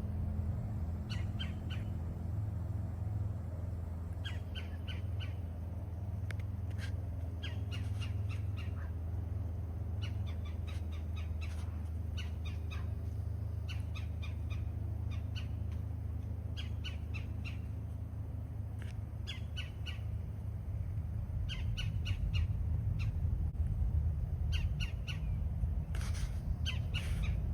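Birds squawking in repeated runs of four to six short, harsh calls, over a steady low rumble that grows louder in the last few seconds.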